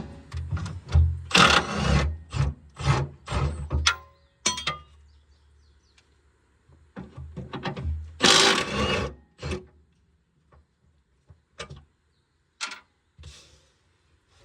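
Work on a skid steer's metal parts with hand tools: a run of knocks, clanks and short scrapes, busiest in the first four seconds and again around eight seconds, thinning to a few separate ticks near the end.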